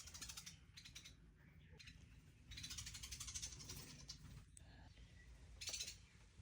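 Nestling birds giving faint, high-pitched begging calls in short bursts, the longest lasting about a second and a half.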